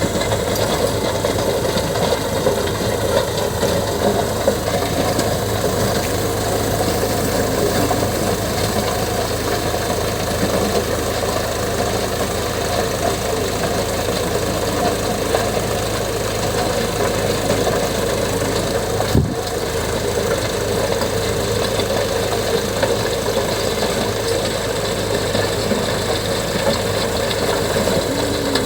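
Indo Farm 3048 tractor's diesel engine running steadily, with a single sharp knock about two-thirds of the way through.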